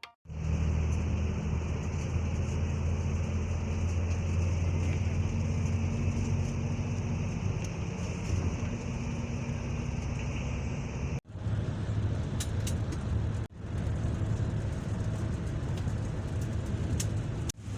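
Vehicle on the move: a steady low engine hum and road rumble, cut off abruptly twice near the end and each time resuming.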